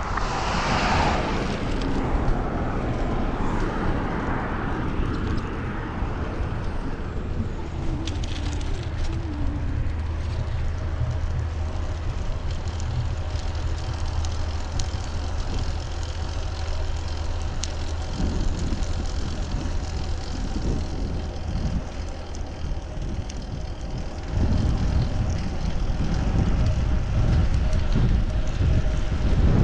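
Riding noise from a fixed-gear bicycle in city traffic: a steady rumble of tyres on the road, wind on the microphone and passing motor traffic. A steady low hum holds through the middle, and the low wind rumble grows heavier near the end.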